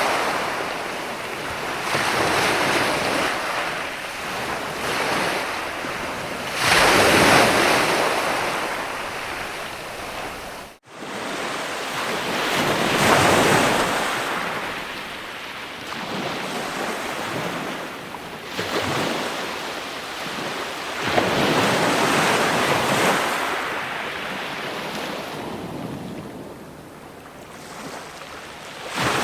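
Ocean surf: waves breaking and washing in, swelling and fading every few seconds. The sound drops out for an instant about eleven seconds in.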